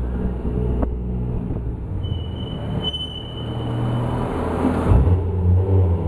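Toyota 1JZ-GTE VVTi 2.5-litre turbocharged inline-six in a Supra MK3, running through a custom 3-inch exhaust with a JASMA muffler, with echo from an underground garage. It runs steadily, dips slightly in the middle, then rises in level to a peak about five seconds in, with a thin high whistle over it for a couple of seconds midway.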